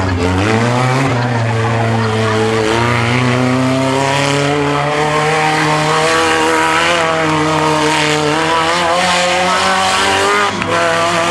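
Monster truck engine running hard at high revs, its pitch climbing and sagging as the throttle is worked, with a short drop in revs about ten seconds in.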